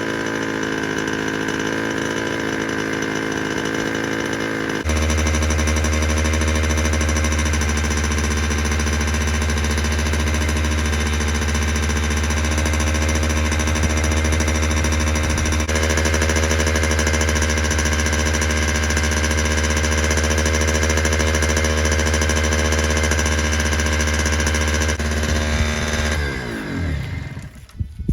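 Honda NSR50's 50cc two-stroke single-cylinder engine running at a steady speed on a faulty carburetor. About five seconds in it gets louder and deeper, and near the end its pitch sinks and the sound drops away briefly.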